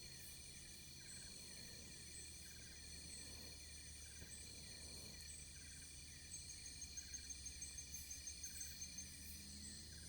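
Chorus of insects such as crickets: several steady high trills, with a chirp repeating roughly once a second. A faster pulsed trill joins about six seconds in.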